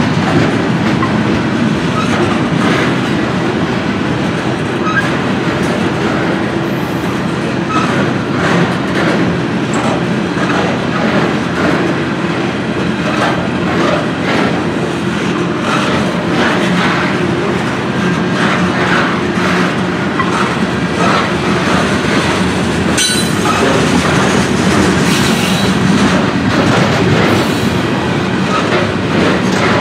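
Covered grain hopper cars of a freight train rolling past close by: a steady, loud rumble of steel wheels on rail with clickety-clack over the rail joints, and one sharp clank about 23 seconds in.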